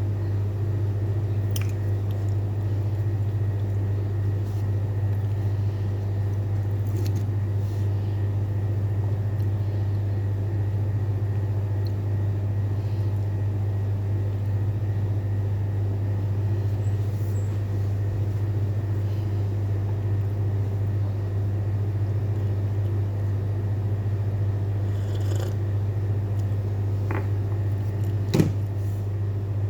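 A steady low hum at an even level, with a few faint clicks and one sharper click near the end.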